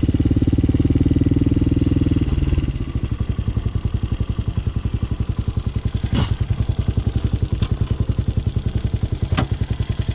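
Motorcycle engine running, then dropping to a slower, evenly pulsing idle a little over two seconds in. Two sharp clicks come later, one in the middle and one near the end.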